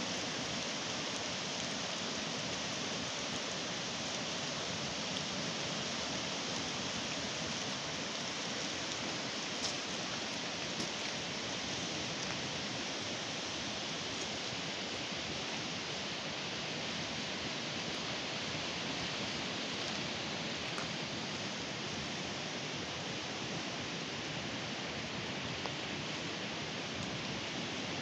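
Steady, even rushing of water, with a couple of faint ticks about ten seconds in.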